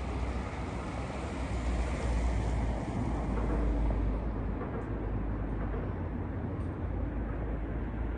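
Steady low rumbling outdoor noise, with no distinct events standing out.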